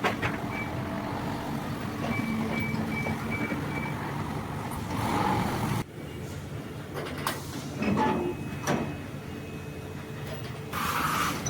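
Factory-floor machinery running steadily, with a short series of high beeps and a few sharp metallic knocks.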